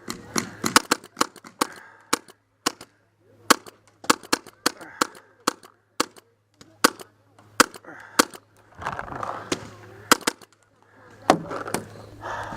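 Paintball markers firing a long run of irregular single shots and quick doubles, the sharp pops of cover fire during a game.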